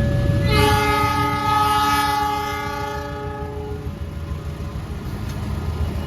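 Train horn sounding one long chord-like blast of about three seconds, starting about half a second in, over the steady low rumble of a passing train.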